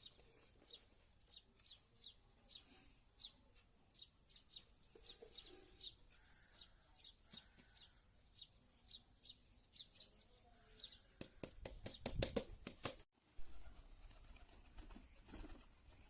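A small bird chirping over and over, short high falling chirps about twice a second. A second or two of sharp clicks and rustling follows, ending in a brief cut-out.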